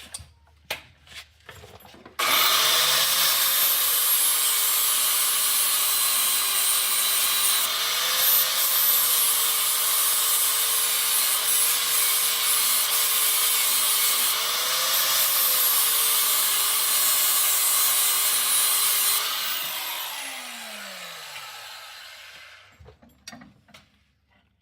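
An electric grinder grinding metal off a brake conversion part to make it fit. It starts suddenly, its whine dips and recovers as it bears into the work, and near the end it is switched off and winds down with a falling whine.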